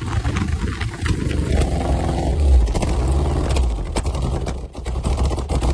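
Engine of a long-sat 1980s Dodge Daytona running just after starting, a steady low rumble that falters briefly near the end and then picks up again.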